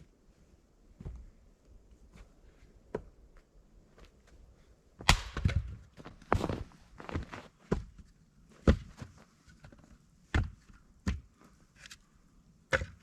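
Chopping strikes on wood: about a dozen sharp, irregular blows, a few faint ones first, then heavier ones about a second apart from the middle on.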